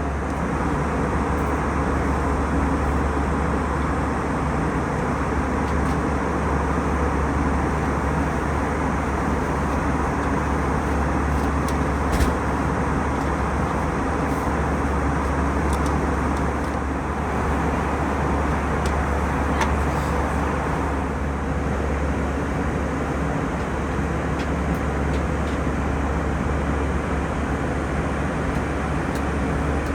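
Steady cabin drone of an Airbus A320 in flight: engine and airflow noise with a strong low hum, unchanging throughout. A single small click about twelve seconds in.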